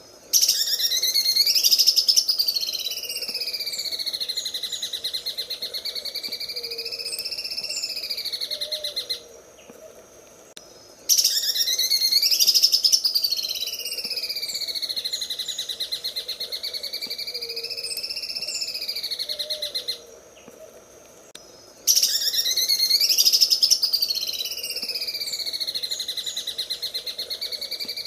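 Green leafbird (cucak ijo) singing its 'sewing machine' song: a very fast, buzzing trill that sweeps up and down in pitch. It comes in three long phrases of about nine seconds each, with short breaks between them.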